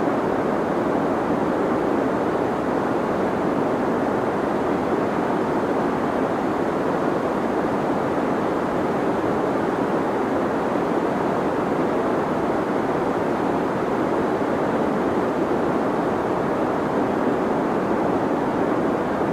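Deep white noise for sleep: a steady, unbroken hiss weighted toward the low and middle range, with the highs rolled off.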